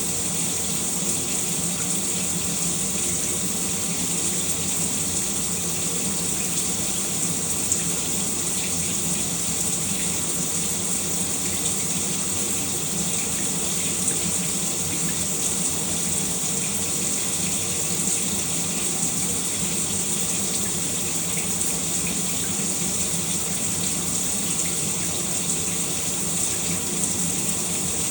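Shower water running steadily, a continuous even hiss of spray with faint splashes and drips.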